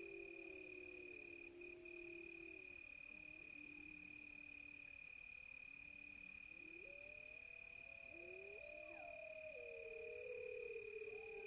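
Several wolves howling in long, overlapping howls that rise and fall, over a steady high-pitched cricket trill and a faster pulsing insect chirr.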